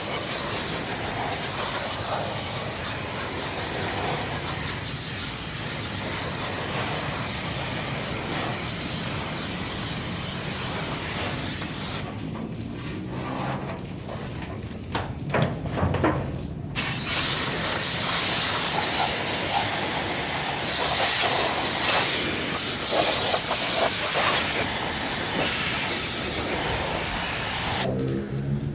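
High-pressure water spray hissing steadily on an air conditioner being cleaned, stopping about twelve seconds in for around five seconds, with a few knocks in the lull, then starting again.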